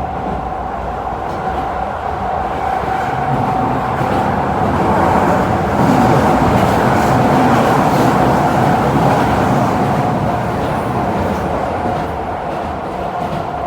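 Keisei 3000 series electric train (Toyo IGBT VVVF inverter, TD-drive three-phase induction motors) running, heard from inside the car: steady rumbling running noise with a steady high-pitched whine over it, sagging slightly in pitch near the end. The whine is the abnormal high noise this set gave off in motion, cause unknown.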